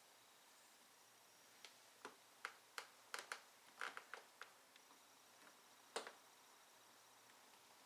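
Light, irregular plastic clicks and taps as small trim plugs are worked into holes in a plastic armrest cover on a van door panel. The clicks come in a loose cluster through the middle, with one louder snap about six seconds in.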